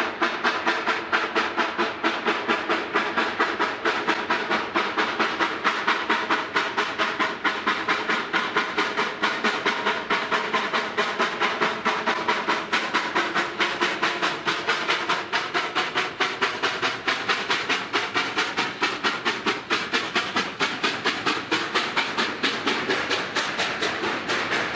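Narrow-gauge steam locomotive working, its exhaust chuffing in a steady beat of about three to four a second over a constant hiss of steam.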